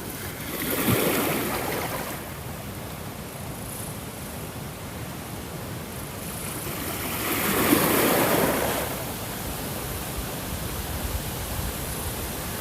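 Ocean waves washing onto a shore, one swelling up about a second in and a bigger one around eight seconds, over a steady background of surf.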